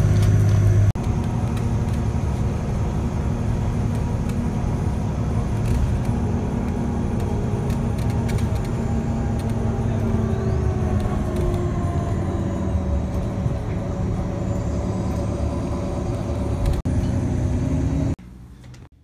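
Steady engine noise with several pitched tones, one of them falling slowly about ten seconds in, broken by abrupt cuts near the start and near the end.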